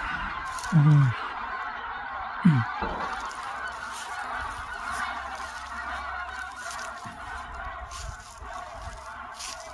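A large flock of birds calling together in a dense, continuous chorus. Two loud, short, low sounds falling in pitch come about a second in and again at about two and a half seconds.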